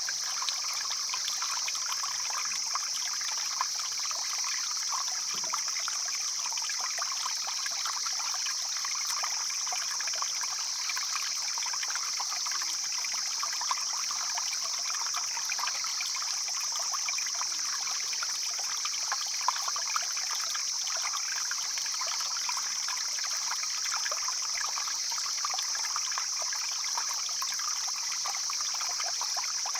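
A stream flowing steadily, its water babbling and trickling without a break, with a steady high hiss over it.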